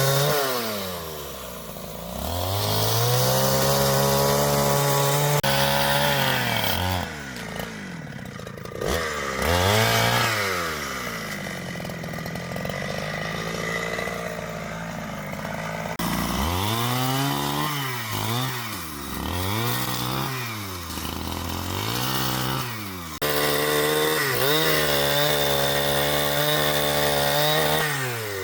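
Two-stroke chainsaw revving up and down over and over, held at high revs for longer stretches while cutting wood, with quick throttle blips in between.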